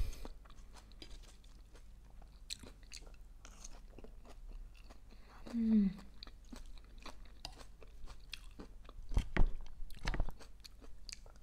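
Close-up chewing of a mouthful of arugula, tomato and pine-nut salad, with many small wet mouth clicks. A short hummed "mm" falls in pitch about halfway, and a few dull knocks come near the end as a wooden utensil works through the salad on the plate.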